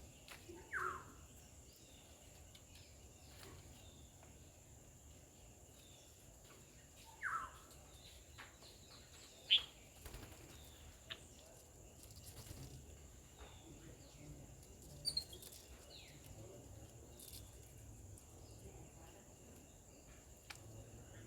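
Quiet natural background: a steady high insect whine with a few short bird chirps scattered through it, the loudest a sharp high chirp about nine seconds in, and a few faint clicks.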